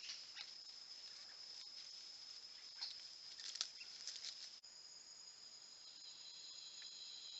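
Faint steady high-pitched insect chorus with a few soft rustles and clicks. About four and a half seconds in it cuts off abruptly and is replaced by a different insect drone of several steady high tones.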